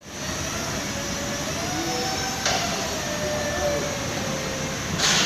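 Forklift running: a steady mechanical noise with a faint wavering whine, and a short burst of hiss about two and a half seconds in and again near the end.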